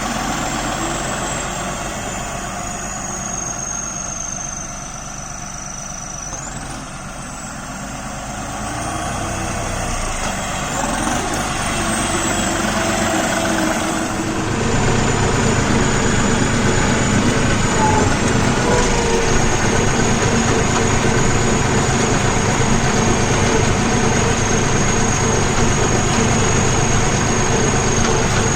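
Diesel engine of a New Holland 5620 tractor running, with a high whine that rises and falls. About halfway through the engine note grows louder and deeper, then holds steady.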